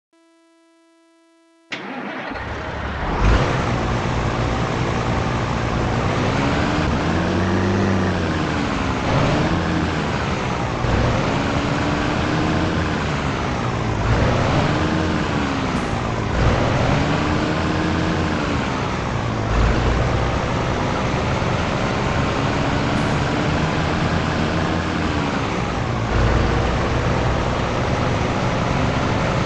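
Scania T113 truck's six-cylinder diesel engine starting up about two seconds in, after a short steady tone. It then pulls away, its engine speed rising and dropping again and again as it shifts up through the gears.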